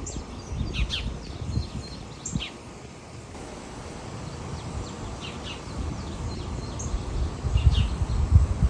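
Wild birds singing, with short high chirps scattered through, over gusts of wind and rustling leaves that grow stronger near the end.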